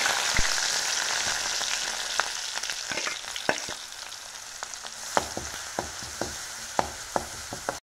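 Crushed red chillies, shallots, garlic and curry leaves sizzling in hot coconut oil in an aluminium kadai at the tempering stage. The sizzle is loudest at first and slowly dies down, with sharp clicks and pops through the second half as the mixture is stirred.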